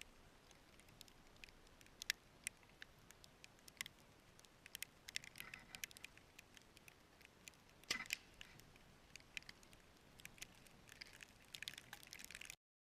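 Faint, irregular ticking and pattering, a scatter of small sharp clicks with a slightly louder crackle about eight seconds in. The sound cuts off abruptly just before the end.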